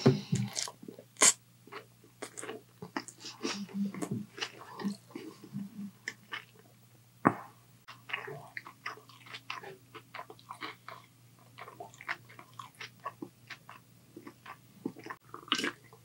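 Close-miked chewing of a mouthful of noodles and takeout food: an irregular run of mouth clicks and crunches.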